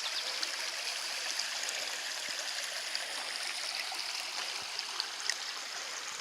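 Steady rushing and gurgling of a small spring-fed creek, with a few faint scattered ticks.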